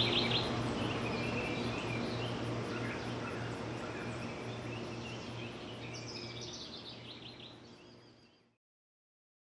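Birds chirping in quick trills over a steady low hum and outdoor background noise. The chirps come at the start and again about six seconds in. The whole sound fades out and stops in silence about eight and a half seconds in.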